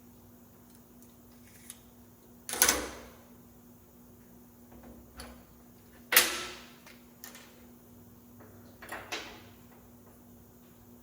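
Scattered metal clanks and knocks: two loud clanks with a short ringing tail, about two and a half and six seconds in, and a few lighter knocks between them, over a faint steady hum.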